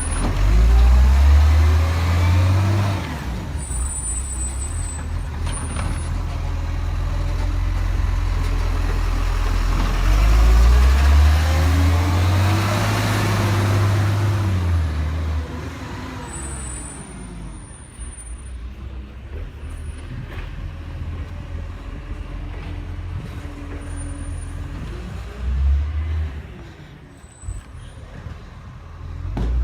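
Diesel garbage truck engine working through its gears as it drives, its note climbing and dropping twice before settling to a quieter run. A few short high-pitched squeaks come through near the start and again part way through.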